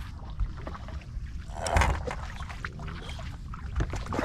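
Handling noises in a small fishing boat as a redfish is brought in: scattered knocks and clicks over a steady low rumble of wind and water, with one louder rush of noise nearly two seconds in.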